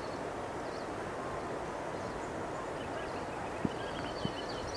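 Steady outdoor background noise with faint high chirps near the end and two light clicks.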